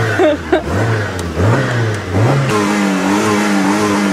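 Fiat Uno's cold engine being revved by pumping the accelerator: several quick rises and falls in revs, then held at a steady raised speed from about two and a half seconds in. It is being warmed up just after a hard start.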